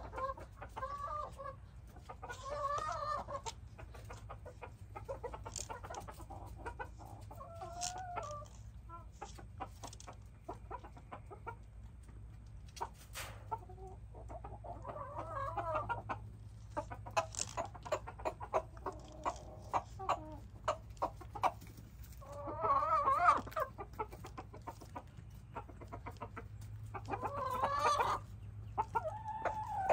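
Backyard hens clucking, with pitched calls every couple of seconds, loudest about two-thirds of the way through. Many short, sharp clicks and taps fall between the calls.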